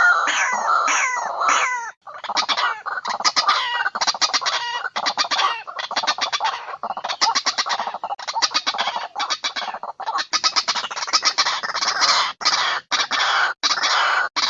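White-breasted waterhen (ruak-ruak) calls, a recorded lure call. Harsh notes that fall in pitch give way about two seconds in to long runs of rapid, clipped notes several a second, broken by short pauses.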